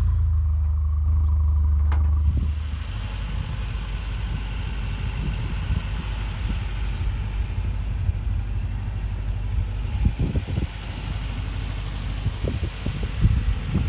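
Engine of a 1995 Toyota TownAce truck idling, running louder for the first two and a half seconds and then steadier and quieter, with a few short knocks near the end.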